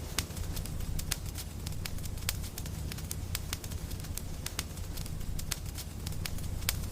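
Wood fire crackling: irregular sharp snaps and pops, a few each second, over a steady low rumble of burning.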